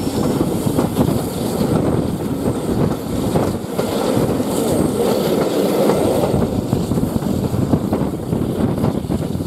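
Steam-hauled heritage train in motion, heard from an open carriage window: the steady running noise of the coaches on the track, with wind on the microphone.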